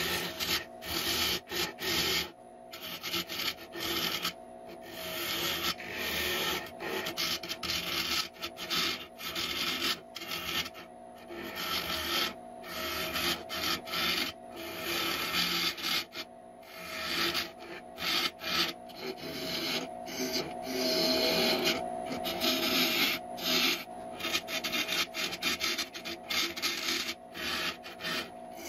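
Wood lathe spinning a burl while a turning tool cuts it in repeated rasping passes, broken by short pauses, over a steady hum from the lathe.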